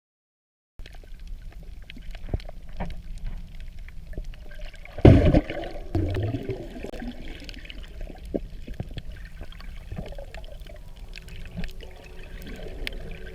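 Water noise heard through an underwater camera housing while snorkeling: sloshing and bubbling with many small clicks, and a loud splash or rush of bubbles about five seconds in. Soft music begins to come in near the end.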